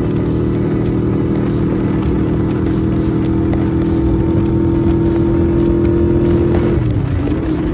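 Yamaha Virago 250's V-twin engine and exhaust running steadily while riding at cruising speed; near the end the engine note dips and wavers briefly, then settles again.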